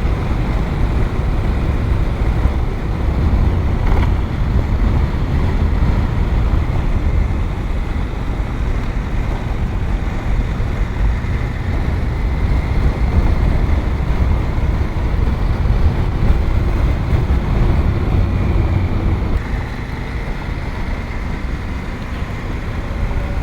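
Adventure motorcycle riding along a graded gravel road: steady engine and tyre noise mixed with wind rushing over the rider's microphone.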